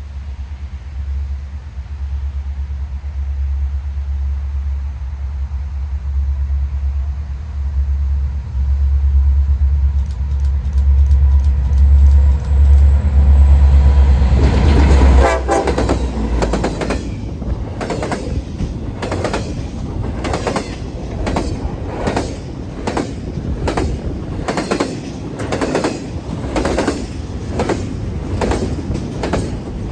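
CN diesel-hauled freight train passing: a deep engine rumble builds as the locomotives approach, the horn sounds briefly as they go by about halfway through, then the cars roll past with a steady rhythm of wheel clicks over the rail joints.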